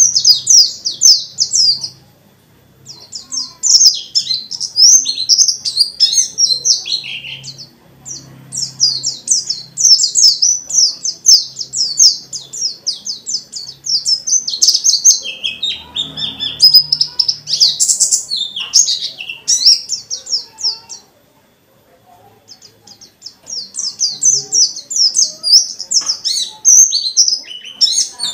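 Pleci (white-eye) singing in full voice: long phrases of rapid, high chattering trills in the fast, run-on 'ngalas' style, broken by short pauses about two seconds in, around seven seconds in and again past twenty seconds.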